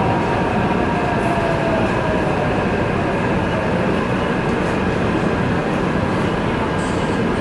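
Taipei Metro train running through the tunnel with a steady rumble of wheels and running gear. A motor whine falls in pitch over the first couple of seconds as the train slows.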